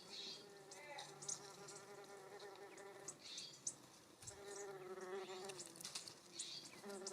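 A flying insect, a fly or bee, buzzing close by. Its hum wavers in pitch and comes and goes twice as it moves about. Short, high bird chips and calls are scattered over it.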